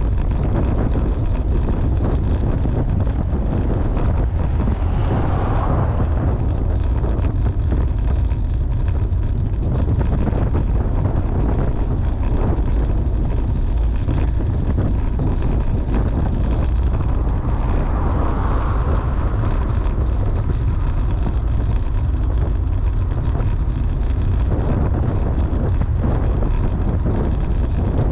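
Steady, loud wind buffeting the microphone of a camera on a moving road bicycle, with two brief swells of rushing noise, a few seconds in and again past the middle.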